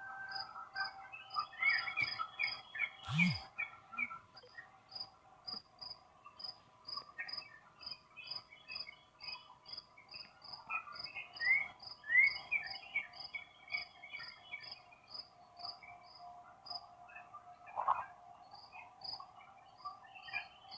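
Distant outdoor tornado warning siren holding a faint steady tone, with birds chirping and a high chirp repeating about twice a second.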